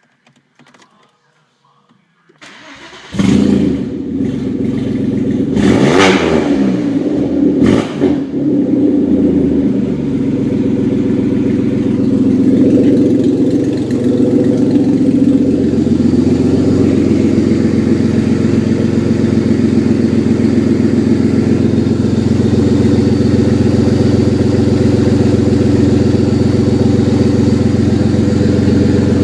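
Audi 2.8-litre V6 (APR) engine cranked and started, catching about three seconds in, revved briefly twice, then idling steadily.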